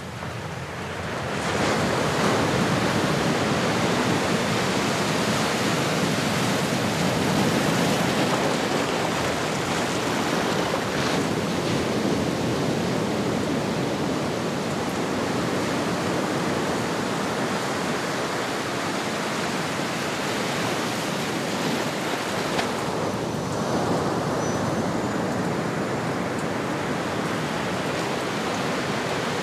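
Ocean waves washing on a shore: a steady rush of surf that swells up over the first couple of seconds and then holds.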